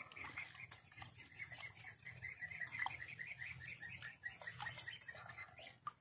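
A bird calling a rapid run of short high chirps, about four a second, for several seconds, over a few light clinks of steel dishes being washed.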